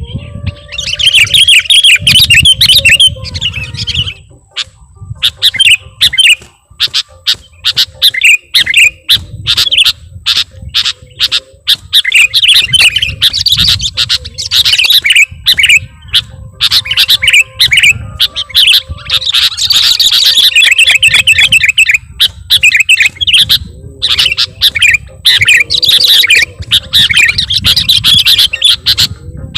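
Sooty-headed bulbuls (kutilang) calling in loud, rapid runs of short chirping notes, almost without pause, as on a lure-call recording.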